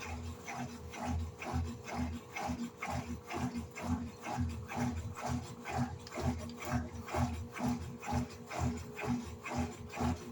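Electrolux LED14 top-loading washing machine in its wash agitation, churning and sloshing water and clothes in a steady rhythm of about two to three strokes a second over the steady hum of its motor.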